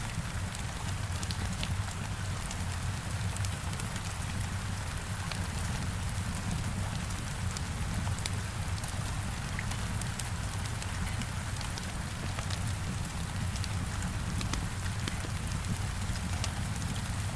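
Steady heavy rain beating on a window, with scattered crackles from a fireplace fire and a constant low rumble underneath.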